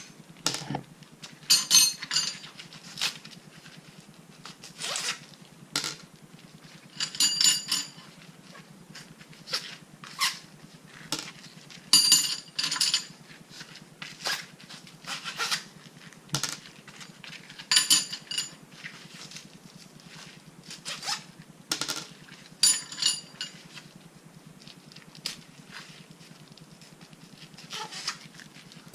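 Bolts and small washers being handled one after another: repeated sharp metal clicks and clinks, one every second or two, some ringing briefly.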